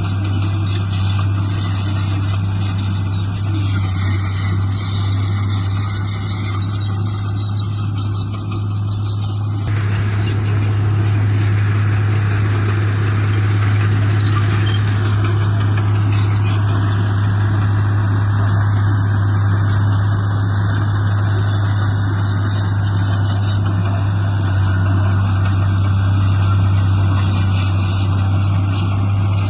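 Heavy diesel earthmoving machinery running steadily: a low engine drone that grows louder about ten seconds in.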